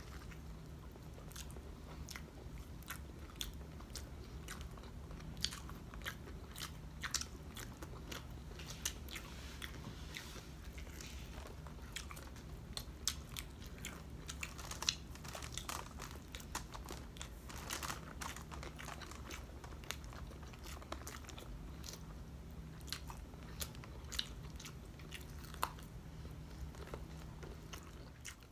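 Close-miked chewing and biting of crispy breaded fried pork chop, with frequent short sharp crunches scattered throughout, over a faint steady low hum.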